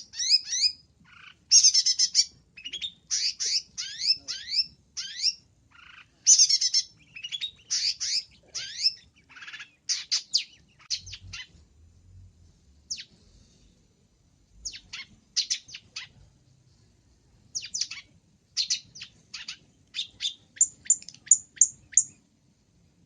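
Long-tailed shrike (cendet) singing a busy song full of mimicked fills: rapid phrases of high, mostly downward-sweeping notes with short pauses between them. Near the end comes a string of five quick high notes.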